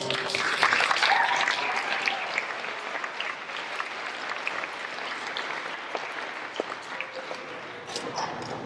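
Audience applause, strongest in the first two seconds and slowly thinning out.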